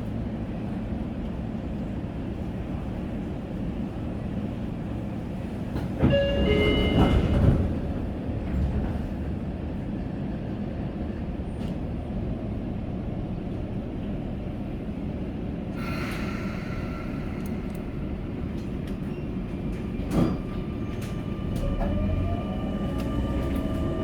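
Sagami Railway commuter train running between stations, its wheels and motors making a steady rumble on the track. About six seconds in there is a brief loud metallic squeal, and near the end a motor whine rises in pitch.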